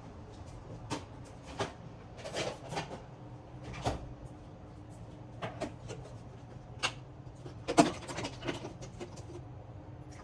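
Kitchen utensils and dishes being handled: irregular light clicks and knocks, the loudest a sharp knock about eight seconds in, over a low steady hum.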